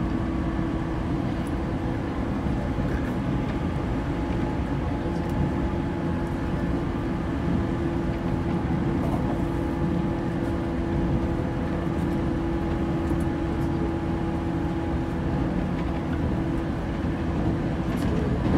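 Interior running noise of a JR 185 series electric train at speed: the steady sound of wheels on the rails, with a low steady hum that weakens near the end.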